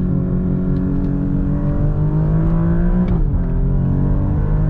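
2021 Alfa Romeo Giulia Quadrifoglio's 2.9-litre twin-turbo V6 accelerating hard in race mode, heard from inside the cabin. The engine note climbs steadily, drops sharply at an automatic upshift about three seconds in, then climbs again.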